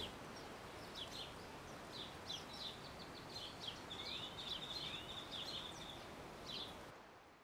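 Faint outdoor birdsong: small birds chirping and twittering in quick high notes, with a brief trill of gliding notes about four seconds in, over a steady low hiss. The sound cuts off near the end.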